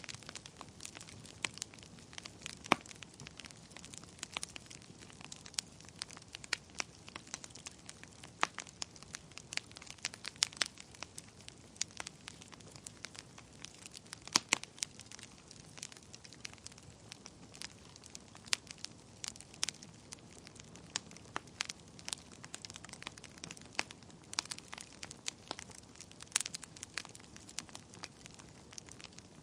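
Wood fire burning in a fireplace: irregular sharp crackles and pops over a low steady hiss.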